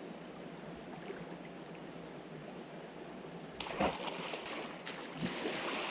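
Creek water running, a steady rushing that gets louder and brighter about three and a half seconds in, with a few short splashes.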